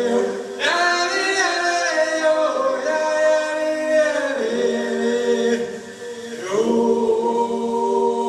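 Several voices singing long, held chords without instruments. The chord shifts about half a second in, again around four and a half seconds, and once more about six and a half seconds in, after a brief fade.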